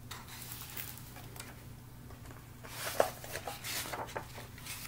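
Paper rustling and handling of a picture book as a page is turned, with a sharp tap about three seconds in.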